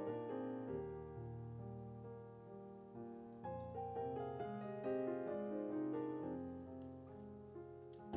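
Soft background piano music, slow sustained chords and notes, with a sharp click at the very end.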